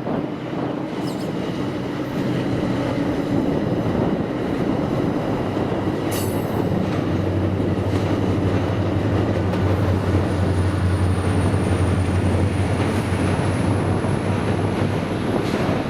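MARC commuter train rolling past: a steady rumble of wheels on rail with a low hum, and a sharp knock about six seconds in. A faint high wheel squeal comes in near the middle and holds to the end.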